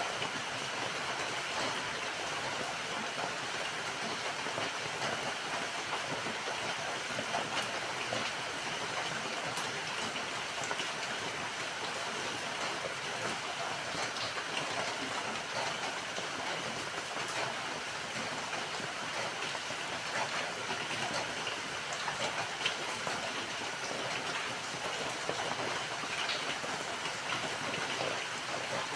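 Steady rain falling: an even hiss with scattered small ticks of single drops.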